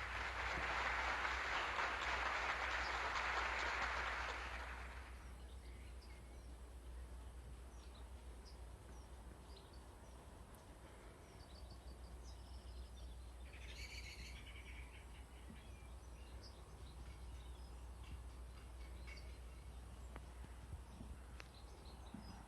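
A loud, even rushing noise for the first few seconds fades out, then birds chirp and call intermittently, one call standing out about halfway through, over a steady low hum.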